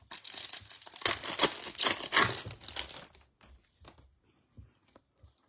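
Trading card pack wrapper being torn open and crinkled for about three seconds, then a few faint clicks of cards being handled.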